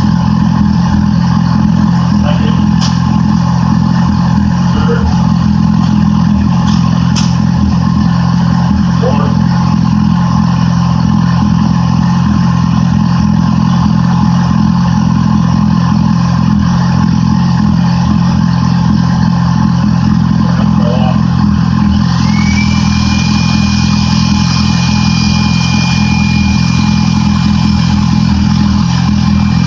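Yamaha R6 inline-four motorcycle engine running steadily at idle, out of the bike. About two-thirds of the way through, a high whine rises and then holds over the engine.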